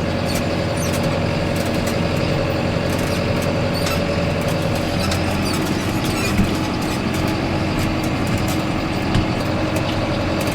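Farm vehicle's engine running steadily while hauling a hay bale across a field, with scattered light clicks and rattles.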